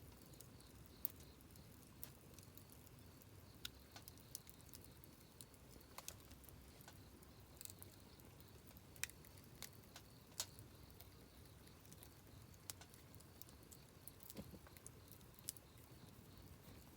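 Quiet wood campfire crackling: irregular sharp pops and snaps, a few louder than the rest, over a faint low rumble.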